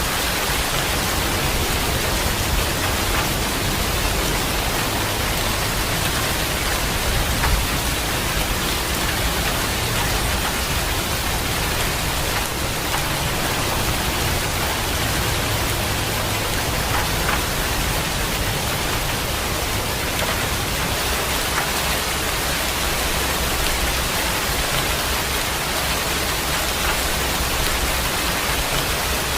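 Heavy rain falling steadily, an even hiss of countless drops with no thunderclap standing out.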